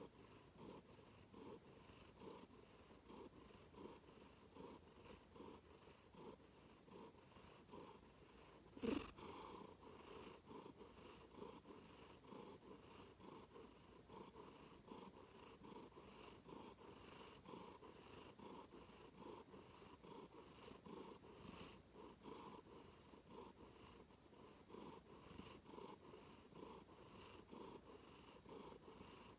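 Domestic cat purring softly and steadily, a faint even rhythmic pulsing. One brief louder noise comes about nine seconds in.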